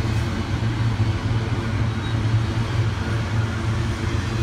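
Double-stack container cars of a freight train rolling across a railroad bridge in a steady low rumble, mixed with road traffic passing on the freeway below.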